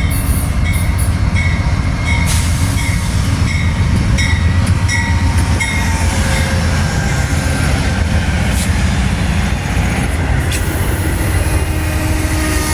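Train rolling past with a heavy, steady rumble. A short high tone repeats about twice a second through the first half, and high wheel squeal comes and goes in the second half.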